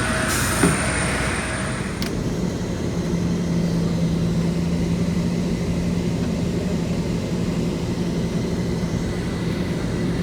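Steady cabin noise of an Airbus A320 after landing: a rumble and hiss from the engines and air conditioning. A short click comes under a second in, and a low steady hum comes in about three seconds in and holds.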